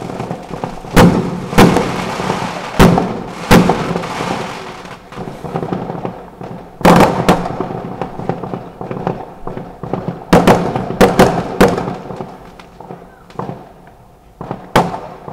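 Fireworks going off: about a dozen sharp bangs, several in quick clusters, with crackling between them.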